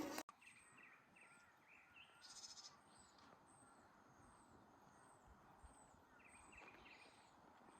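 Faint birds chirping: a thin high chirp repeated about twice a second, with short lower chirping phrases near the start and again near the end.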